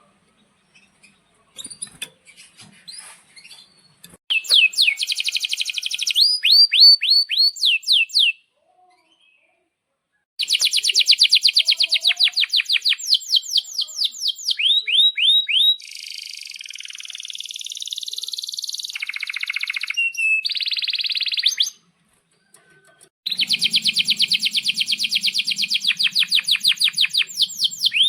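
Male domestic canary singing long phrases of rapid rolling trills and quick repeated down-slurred notes, with buzzy stretches between, broken by short pauses.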